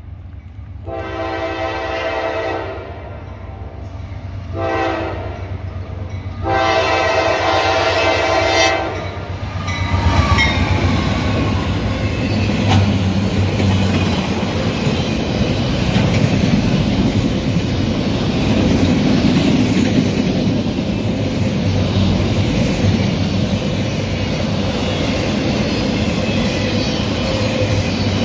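Norfolk Southern freight locomotive's horn sounding three blasts, long, short, long. Then the train passes close by: a loud, steady rumble and clatter of autorack cars' wheels on the rails.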